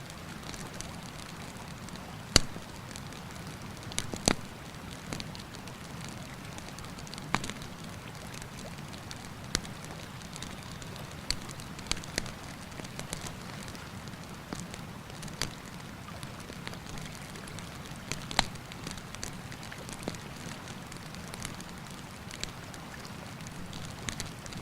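Wood campfire crackling, with irregular sharp pops every second or so and a few louder snaps, over the steady rushing of a river.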